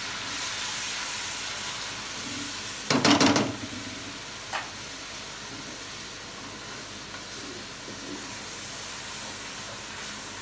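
Onion paste sizzling steadily as it fries in hot oil in a karahi, stirred with a spatula. A short loud clatter comes about three seconds in, and a single lighter tap about a second later.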